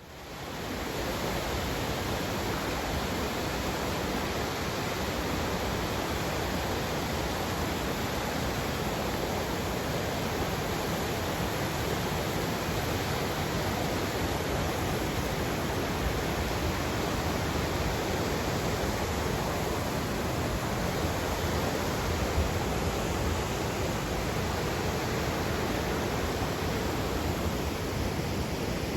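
A river rushing steadily: a constant, even wash of flowing water with no breaks, fading in over the first second.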